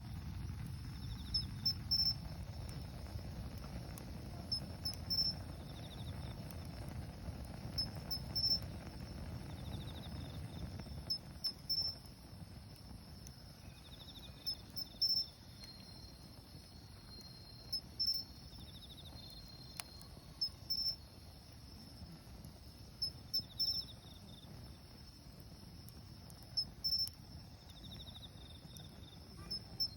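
Autumn crickets chirping: short high chirps in groups of two or three every second or two, with a second insect's pulsed trill repeating every few seconds. Underneath, a wood fire burns with a low rustle and a few sharp pops.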